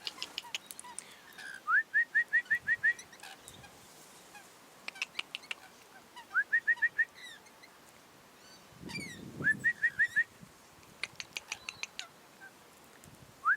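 Quick runs of short rising whistled notes, five to seven to a run and about six a second, repeated four times, with sharp high chirps or ticks between the runs and a brief low rumble about nine seconds in.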